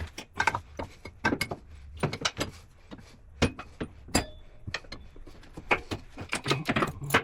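Irregular metallic clanks and knocks of tools and parts being handled while refitting a side-by-side's rear axle and suspension, with one brief ringing clink about four seconds in.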